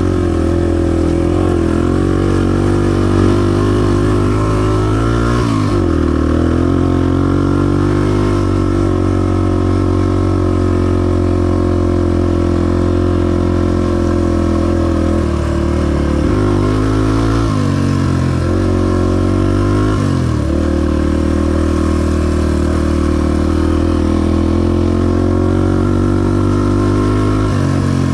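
Honda XR250's single-cylinder four-stroke engine running under way on a trail. Its note holds steady for long stretches, dipping and picking up again about five times as the throttle is eased off and opened.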